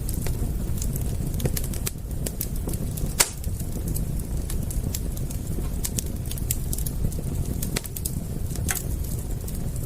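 Wood fire crackling: irregular sharp pops and snaps over a low steady rumble, with one loud pop about three seconds in.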